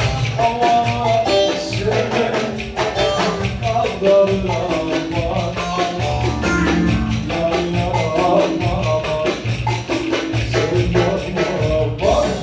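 Instrumental Ankara oyun havası, Turkish folk dance music: a melody line runs over a fast, steady percussion beat with jingling strokes.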